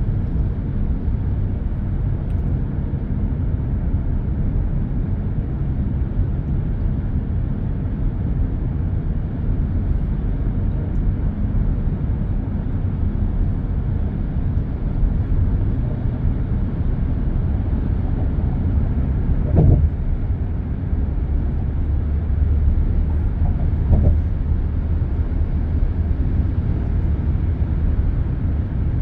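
Steady, mostly low-pitched noise of dense expressway traffic: tyres and engines passing continuously. About two-thirds of the way in, two brief louder moments stand out, a few seconds apart.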